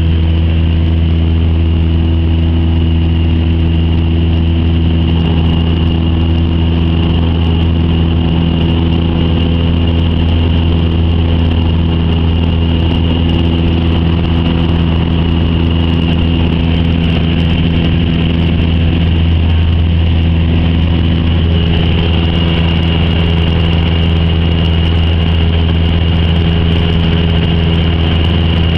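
Cessna 172's piston engine and propeller running steadily, heard inside the cockpit as a loud, even hum with a higher whine on top.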